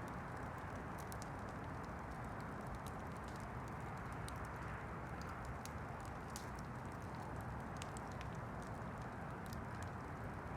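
Campfire burning, with frequent small sharp crackles and pops of burning wood over a steady, even rushing noise.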